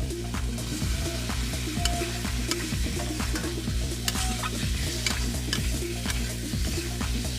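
Close-up eating sounds: rice and curry mixed by hand on a plate and chewed, a steady run of small wet clicks and smacks.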